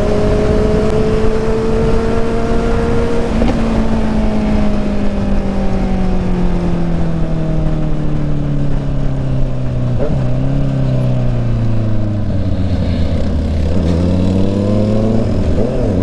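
Honda CB650 inline-four motorcycle engine running while under way, with wind rushing over the microphone. The engine pitch rises a little, then falls steadily for several seconds as the bike slows, and climbs again near the end.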